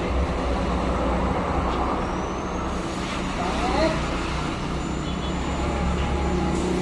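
Steady low rumble of motor vehicle traffic, with a couple of faint short chirps from the myna about three and a half seconds in.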